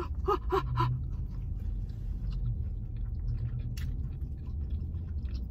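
Chewing and small mouth clicks of people eating fast-food sandwiches on soft buns, with a short hummed 'mm' just after the start. A steady low rumble runs underneath.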